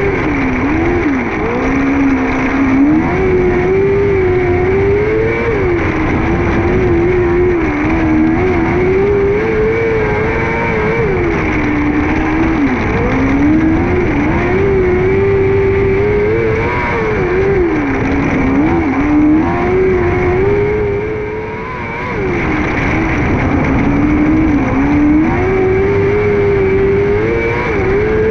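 600cc micro sprint car's motorcycle engine at racing speed on a dirt oval. The revs climb on each straight and drop back for each corner, about five times over, with a brief lull a little past two-thirds of the way through.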